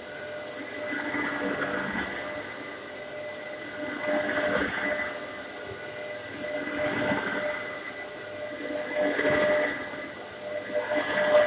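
Dyson DC07 bagless upright vacuum cleaner running with a steady whine, its noise swelling and easing every two to three seconds.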